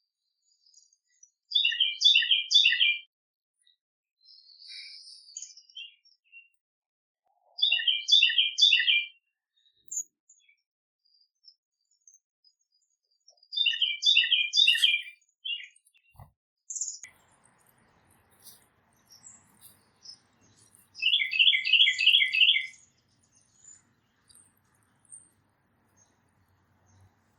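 A songbird singing the same short phrase of rapid repeated notes four times, about every six seconds, with a few faint chirps in between.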